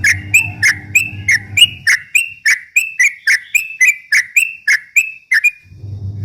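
Yellow-vented bulbul (cucak trucuk) singing a fast 'ropel' run: a string of short, sharp chirping notes at about three a second that breaks off a little past five seconds in. A low steady hum lies under the first two seconds and returns near the end.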